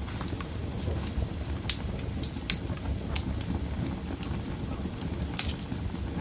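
Wood fire burning in a fireplace: a steady low rush from the flames with irregular sharp crackles and pops from the burning logs, the loudest pop a little under two seconds in.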